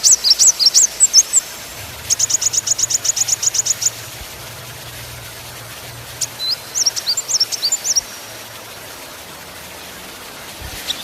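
A small songbird singing in high whistled phrases. It opens with a run of quick upward-sweeping notes, then gives a fast, even trill of about a dozen notes. After a pause it sings a few varied chirps.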